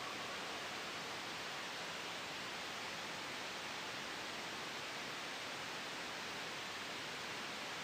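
Steady soft hiss of white noise blended with a gentle wind sound, even throughout with no changes.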